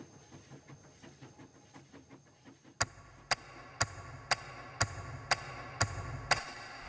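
Faint rhythmic ticking, then from about three seconds in sharp, evenly spaced clicks about two a second over a low hum, like a percussion count-in.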